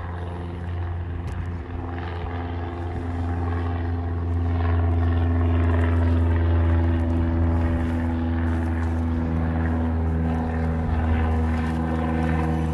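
Scooter being ridden, its motor running at a steady pitch with a low, even hum that swells a little midway.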